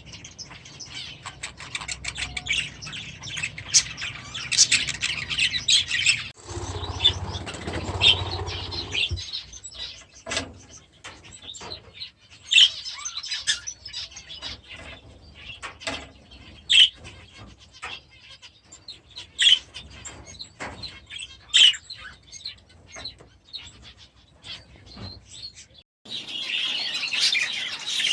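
A flock of budgerigars chirping and chattering continuously, with sharp, louder calls scattered through. About 7 seconds in, a low rustling noise lasts for two seconds.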